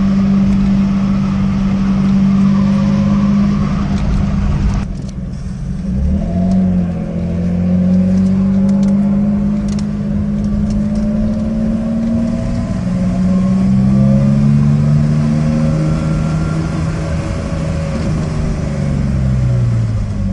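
BMW E30 325i's 2.5-litre M20B25 straight-six, running without a catalytic converter, under hard acceleration: the engine note climbs in pitch through the gears, with breaks for gear changes about five and twelve seconds in, then falls away near the end.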